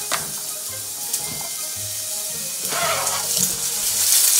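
Sliced onions sizzling in hot oil in a frying pan while they are stirred with a wooden spatula. The sizzle grows louder toward the end.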